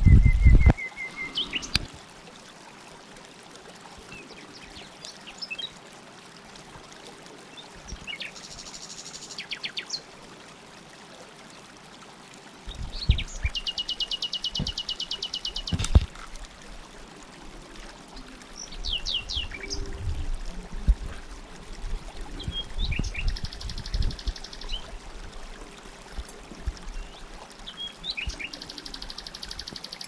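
Songbirds chirping, with several rapid high trills of two to three seconds each and a few quick falling chirps. A few low thumps are heard as well, the loudest right at the start.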